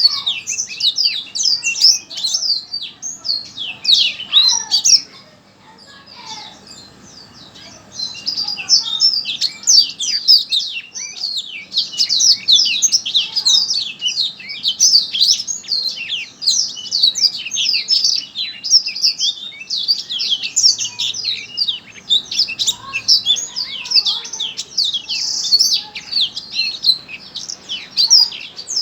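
A songbird singing a fast, continuous run of quick high chirps and short trills, with a pause about five seconds in before the song picks up again about three seconds later.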